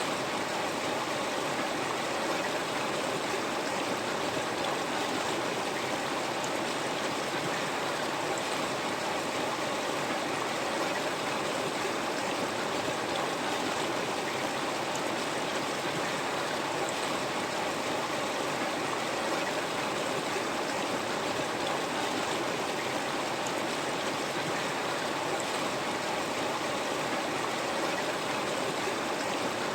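River water flowing and rushing over stones, a steady, even rush with no breaks.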